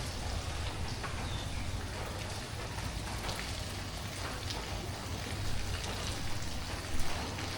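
Steady tropical rain falling, an even hiss with scattered sharp drip ticks on nearby surfaces. A low rumble underneath fades after the first second or so, and there is one brief louder splash about seven seconds in.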